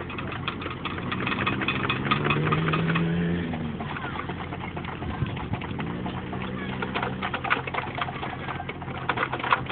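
Caterpillar mini excavator's engine running, its pitch rising slightly and then dipping as the machine works, with a dense run of clicks and rattles over it.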